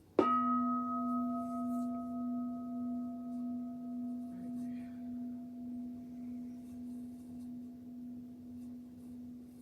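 A bowl-shaped mindfulness bell struck once. Its low tone rings on and slowly fades with a gentle, regular waver, the higher overtones dying away first. In this practice the bell is sounded after each mindfulness training is read.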